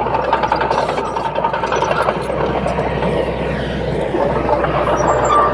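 Heavy diesel engine of earthmoving machinery running steadily, with a continuous low hum and a dense rattle of small clanks over it.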